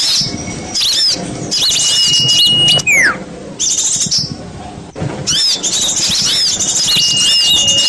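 Bird-luring recording of small songbirds chirping in quick, high arcs. A held whistle note ends in a falling whistle, and the pattern repeats about five seconds later, as from a looped track. The chirping thins briefly just after the middle.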